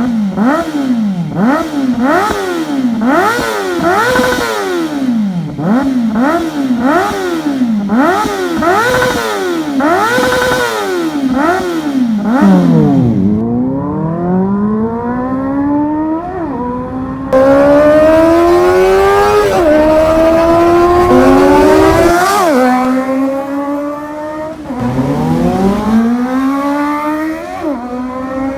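2023 Kawasaki ZX-4RR's inline-four engine through a slip-on exhaust with a black knight muffler, first blipped in quick revs about once a second. It then pulls in long rising sweeps, each broken by a short drop in pitch as it shifts up and climbs again.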